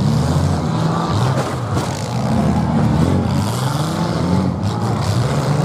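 Several demolition derby cars' engines revving hard at once, their pitches rising and falling as they push and ram each other.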